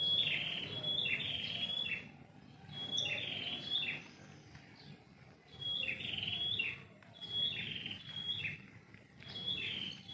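A songbird singing, repeating the same short phrase of high chirps about five times with brief pauses between.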